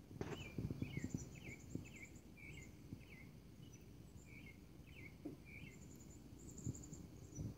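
Faint outdoor birdsong: a bird repeating short chirps about twice a second, with thinner high trills in between. A few low thumps sound in the first couple of seconds.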